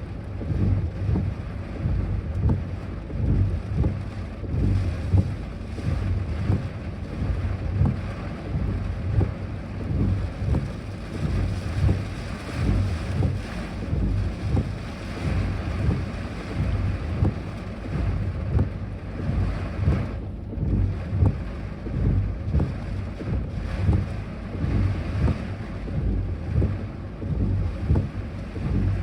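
Typhoon wind gusting and buffeting the microphone with a pulsing low rumble, easing briefly about two-thirds of the way through.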